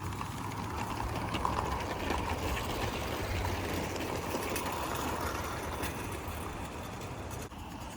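A live steam Accucraft Sabrina locomotive hauling vintage lithographed tinplate wagons over 32 mm gauge track. The metal wheels make a steady jingle jangle clatter on the rails.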